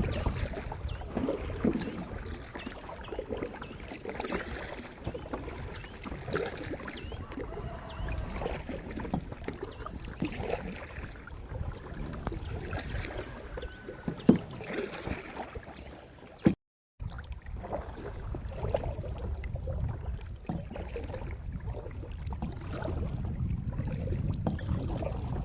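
Kayak paddling on a river: paddle splashes and water sloshing around the hull over a low rumble, with a sharp knock a little past the middle. The sound drops out completely for about half a second about two-thirds of the way through.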